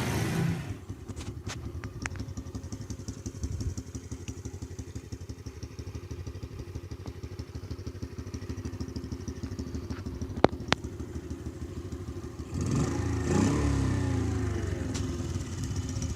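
Kovrov-built motorcycle engine idling with a steady, even beat. A sharp click comes about ten seconds in, and near the end the engine is revved up and down a few times, louder.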